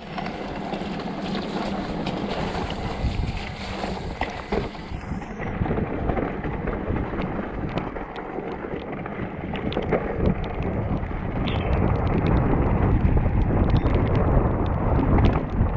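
Wind rushing over the microphone and tyres on wet dirt as a mountain bike is ridden down a trail, with sharp clicks and rattles from the bike over bumps. It grows louder over the last few seconds as speed builds.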